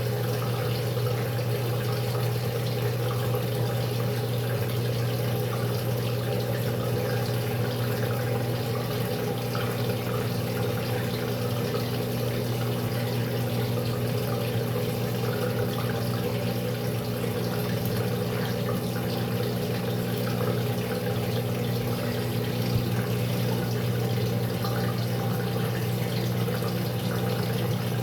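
Maytag top-load washing machine during its tub-clean cycle: water rushing with a steady electrical hum from the machine.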